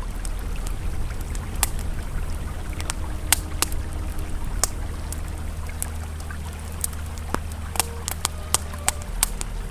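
Campfire crackling, with sharp irregular pops a few times a second, over the steady low rush of a flowing river.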